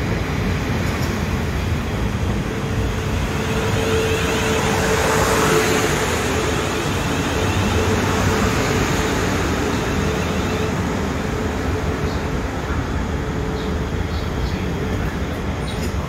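South Western Railway electric multiple unit running alongside the platform and slowing almost to a stop, with steady wheel and rail noise. A whine is heard from about three seconds in and fades away about ten seconds in.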